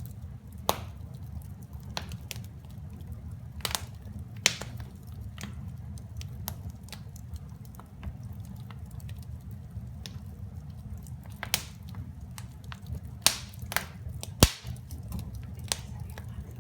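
Wood fire crackling in a fireplace: irregular sharp pops and snaps over a low steady rumble, with a few louder pops, the loudest near the end.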